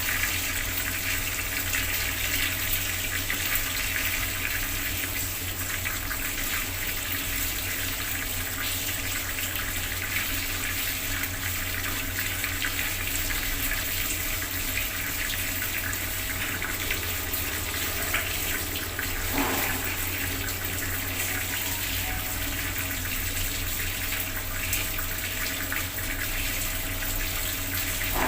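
Bathroom water tap running steadily, its stream splashing into the basin below.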